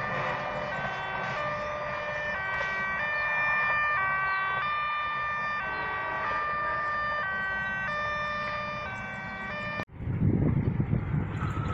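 Electronic melody of a railway station chime, playing a tune in steady notes about half a second each over a low rumble. It cuts off abruptly near the end and gives way to a louder, uneven low rumble from a train.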